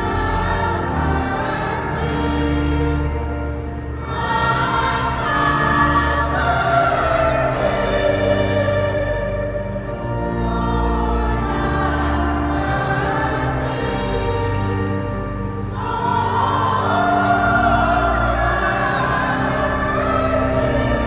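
Choir singing a sacred piece over sustained low accompaniment, swelling louder about four seconds in and again near the end.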